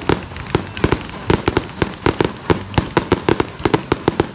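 Fireworks going off: a rapid, irregular string of sharp bangs and pops, several a second, some coming in quick bursts.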